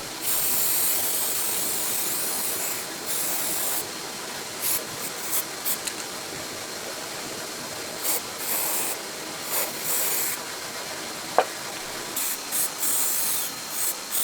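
Repeated short bursts of hissing spray, starting and stopping irregularly, with one sharp click about eleven seconds in.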